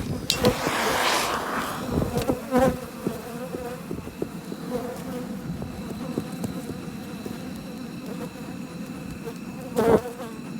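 Swarm of honeybees buzzing around an open hive in a steady hum, the bees agitated and stirred up. A rush of noise comes about half a second in and fades by two seconds, and a short loud sound comes near the end.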